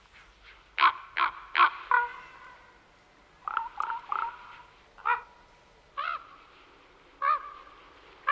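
A bird calling repeatedly with short calls: four in quick succession about a second in, a run of three a little later, then single calls about once a second.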